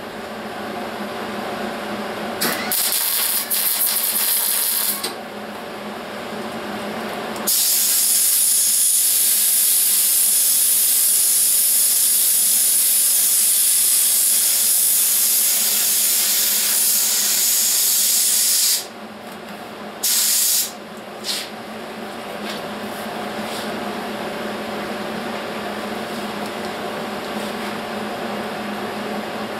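Welder laying short welds on the wheelhouse sheet metal, a hissing crackle in separate runs: one of about two and a half seconds, a long one of about eleven seconds in the middle, then two brief tacks. The welds are stitched between existing spot welds in short runs to keep the panel from warping.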